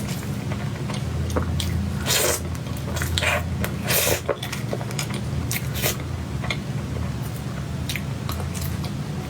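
Close-miked mouth sounds of a person eating cake: wet chewing and lip smacks with small clicks, and a few louder noisy bursts between about two and six seconds in. A steady low hum runs underneath.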